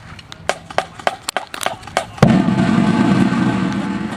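Scattered sharp clicks, then about two seconds in a drum corps horn line comes in loud on a sustained brass chord that slowly fades.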